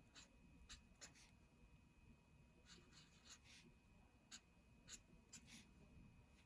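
Faint scratchy strokes of a colouring tool on paper, about a dozen short strokes at irregular intervals as an area is coloured in.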